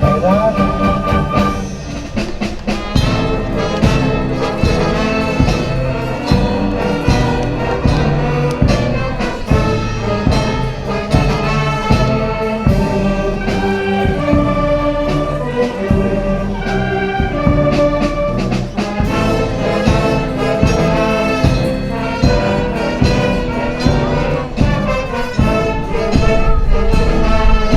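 Symphonic wind band playing a danzón, with brass and a steady beat.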